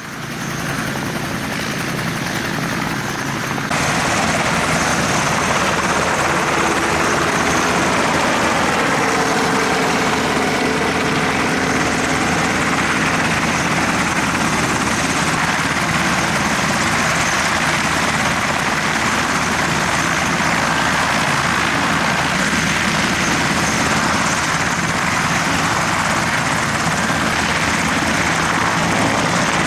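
Military two-bladed helicopter in display flight, its rotor and turbine making a steady, loud chopping rumble that jumps louder about four seconds in.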